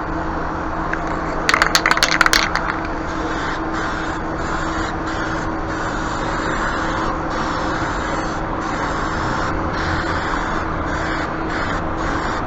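Aerosol spray paint can: shaken briefly about a second and a half in, its mixing ball clicking, then sprayed in a string of hissing passes with short breaks between them.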